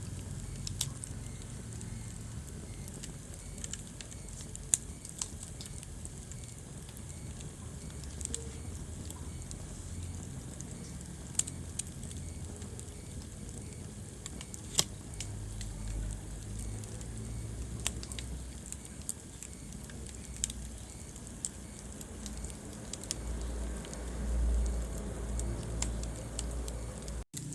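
Wood fire crackling in a fireplace: irregular sharp pops and snaps over a low, steady rumble of burning flames. The sound cuts out for an instant near the end.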